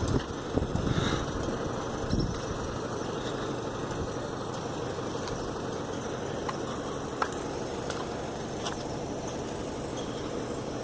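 An engine running steadily in the background, with a few faint ticks.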